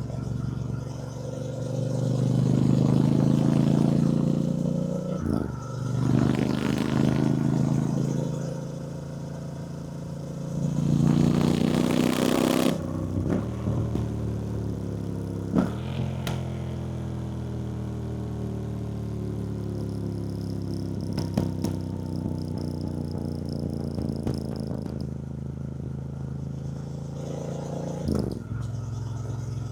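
2024 Triumph Bonneville T120's 1200 cc parallel-twin engine heard while riding. The revs climb in three pulls with short dips between, like accelerating up through the gears. The pitch then falls slowly over the second half as the bike rolls off the throttle.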